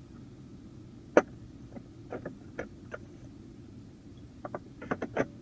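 Clicks and light knocks of plastic centre-console parts being handled in a Mercedes ML350: one sharp click about a second in, a few softer ones, then a quick run of clicks near the end. A low steady hum runs underneath.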